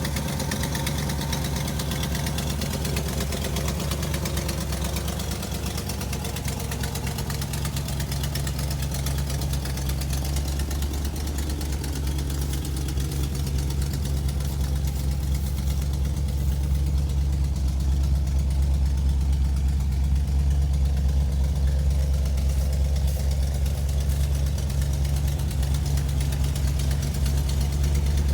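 A car engine idling steadily, a low even hum that gets a little louder over the second half.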